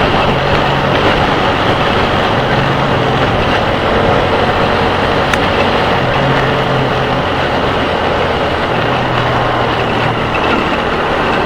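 Motorcycle riding at speed: the engine's steady hum under a constant rush of wind and road noise, picked up by a helmet camera's external microphone.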